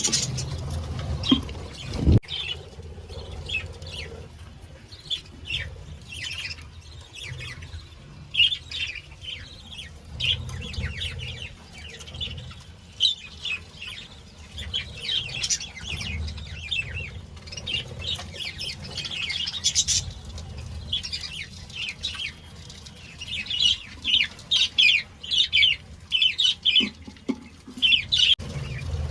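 A colony of budgerigars chirping and chattering, with many short high calls overlapping throughout, along with wing flapping and low rumbling. A sharp knock comes about two seconds in.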